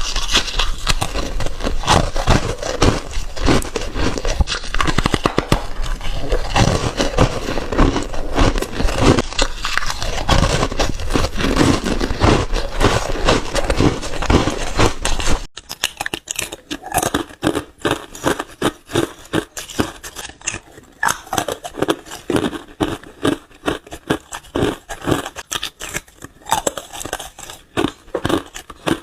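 Close-miked crunching of shaved and crushed ice being bitten and chewed. The crunching is dense and continuous for about the first half, then changes abruptly to sparser, separate crunches.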